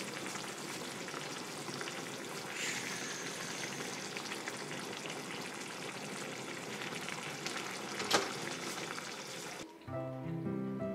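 Bean sprout bulgogi sizzling steadily as it fries in a frying pan, with a single sharp click about eight seconds in. Background music takes over near the end.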